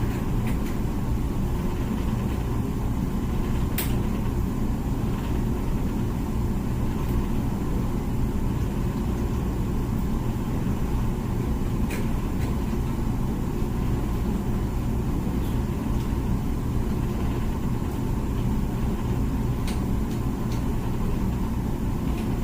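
Comfee dishwasher running mid-cycle: a steady low rumble and hum of its pump and water spraying inside the tub, with a few faint clicks.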